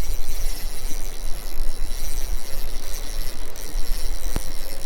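Steady river water rushing, under a low rumble of wind on the microphone, with one sharp click near the end.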